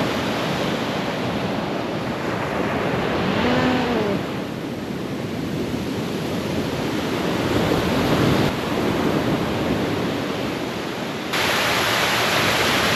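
Surf washing onto a beach at high tide, a steady rush of water with some wind on the microphone; a short pitched sound about three and a half seconds in, and the rush turns louder and brighter about eleven seconds in.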